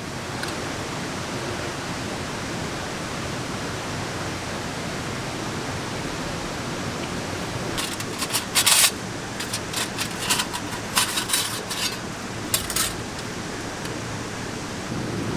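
Steady hiss of rain. From about eight to thirteen seconds in, an irregular run of sharp clicks and rustles sounds over it.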